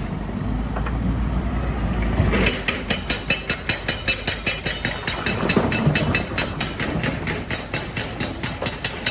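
Heavy machinery running with a steady low rumble. About two and a half seconds in, a fast, even clatter of sharp knocks starts, about five or six a second.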